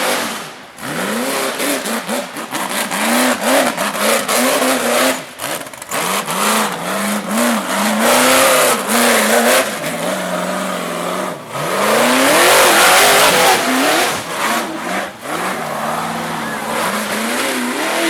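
Hill-climb buggy's engine revving hard, the pitch swooping up and down over and over as the throttle is worked. A rushing noise rides on it and peaks twice, near the middle and again about two-thirds through.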